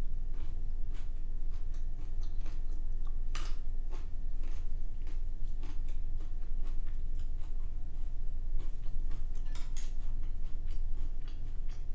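Close-miked chewing of food: irregular wet mouth clicks and smacks, with two louder ones about three and a half and ten seconds in, over a steady low hum.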